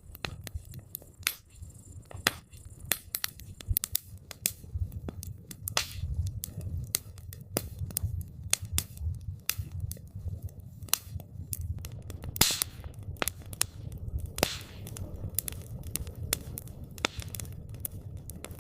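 Wood campfire crackling: irregular sharp pops and snaps over a low steady rumble, with two louder cracks in the second half.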